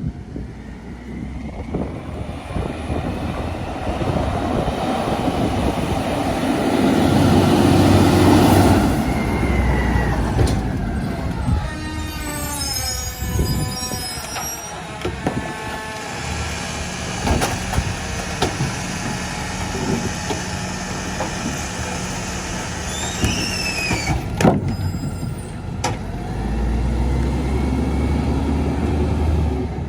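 Mack MRU rear-load garbage truck with a McNeilus body at work: the diesel engine runs and revs up, loudest about eight seconds in. A long wavering squeal follows a few seconds later, and a short falling squeal with clicks comes near the end, among scattered knocks.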